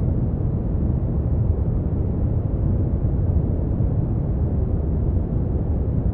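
Synthetic brown noise: a steady, deep rumbling hiss with most of its energy in the bass, unchanging throughout.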